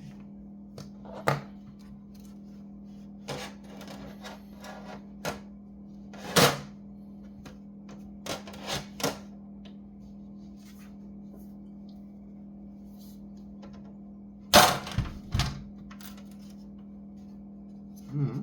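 Irregular clicks and knocks of small tools and laptop parts being handled during disassembly, with sharper knocks about six and fifteen seconds in, over a steady low hum.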